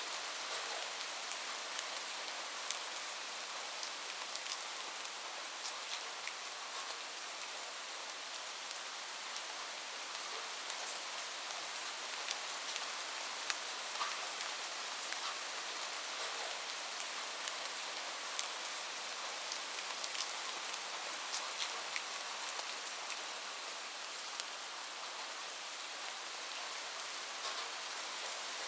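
Steady rain falling on a roof, with many sharp taps of single drops over an even hiss.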